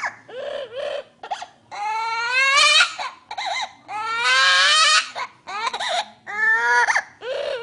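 A parrot mimicking a baby's crying: a run of whimpering cries and longer wails, the longest rising in pitch about two seconds in and again about four seconds in.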